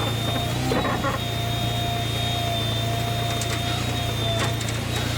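Steady machine hum with a thin high whine held over it, the whine sliding briefly in pitch about a second in, and a few faint clicks.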